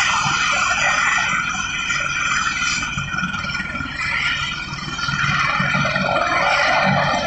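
Helicopter running: a steady high whine made of many tones over an uneven low beat. There is a slight dip in level around four to five seconds in.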